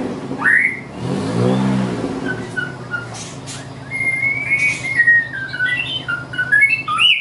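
White-rumped shama singing: two rising whistled notes, then about three seconds in a quick run of short, stepping notes. A low hum runs underneath and cuts off suddenly near the end.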